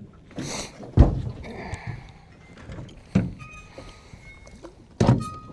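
A few hollow thumps and knocks on a fishing boat, the loudest about a second in, with a short hiss just before it.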